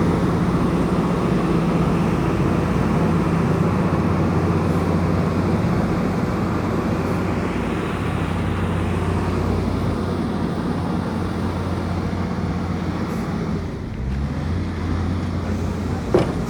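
Komatsu bulldozer's diesel engine running steadily under load; near the end its note dips and shifts lower, and a single sharp click sounds just before the end.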